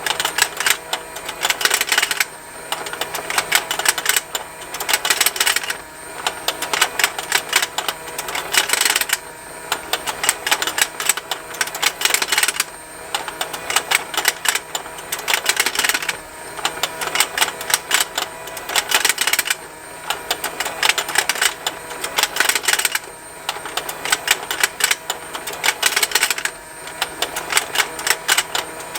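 Motor-driven plastic fishing game toy turning its pond: a fast continuous ticking and snapping of plastic from its gears and the fish opening and closing, swelling louder in stretches about every three and a half seconds, over a faint steady motor hum.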